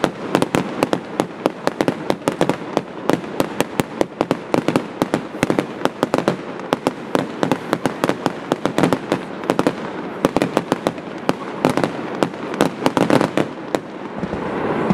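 Aerial fireworks bursting in quick succession: a dense, continuous run of sharp bangs and crackles, several a second.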